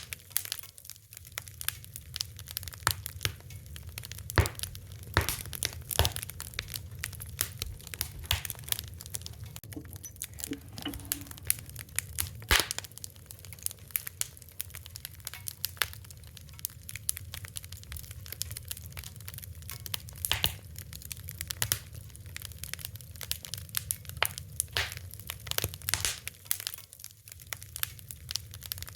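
Fire crackling: irregular sharp pops and snaps, a few louder than the rest, over a low steady rumble.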